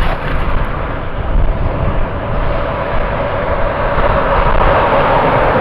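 Car driving on the road, with steady engine and road noise. The engine's pitch climbs slightly and it gets louder near the end as the car speeds up.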